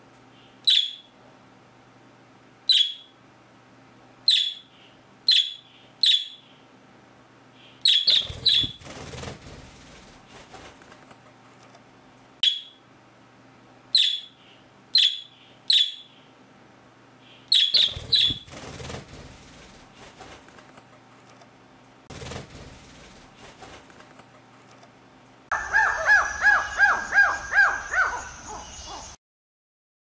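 Parrots calling: short, sharp, high chirps, single or in quick pairs, every second or two. Near the end comes a rapid run of about eight lower, harsher calls that cuts off suddenly.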